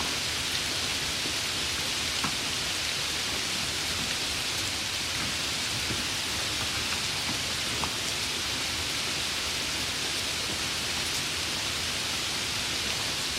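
Steady rain falling, an even hiss with no let-up, with a couple of single drops ticking a little louder now and then.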